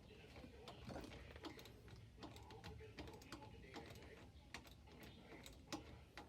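Faint, irregular clicks and light taps of hand work with tools and small metal parts while a truck battery is being secured in its mounting.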